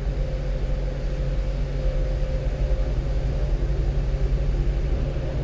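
One-ton truck running steadily at cruising speed: a continuous low engine hum with tyre and road noise, heard inside the cab.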